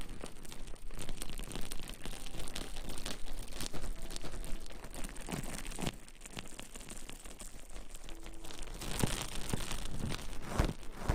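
ASMR rustling and crinkling: irregular scratchy crackles and rustles with no steady rhythm.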